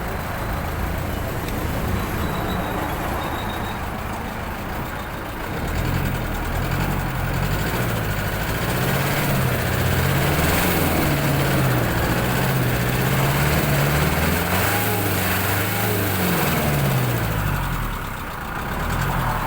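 Kia Bongo 3 diesel engine idling, then revved for about twelve seconds with its speed wavering up and down, dropping back to idle near the end.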